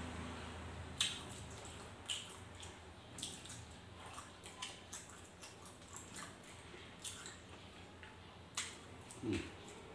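Close-up eating sounds: wet chewing and lip-smacking clicks scattered every second or so, with a short low sound near the end.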